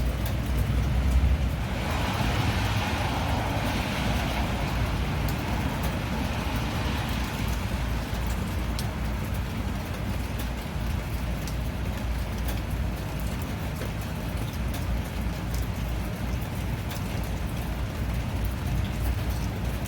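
Steady rain with scattered drops ticking, over a low rumble. About two seconds in, a hiss swells and fades over the next few seconds, like a car's tyres passing on a wet road.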